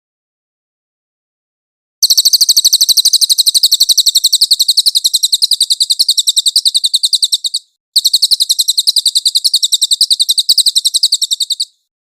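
Cililin bird singing: two long, rapid, high-pitched trills of evenly repeated notes, starting about two seconds in. The first lasts nearly six seconds and the second, after a brief pause, about four.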